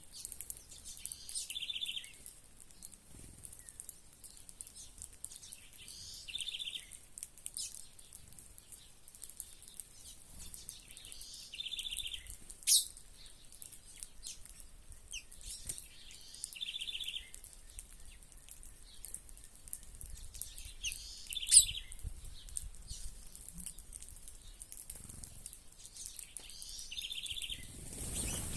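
A small songbird repeating a short call about every five seconds, six times in all: a high note, then a quick buzzy trill. Twice a sharp click cuts in, louder than the calls.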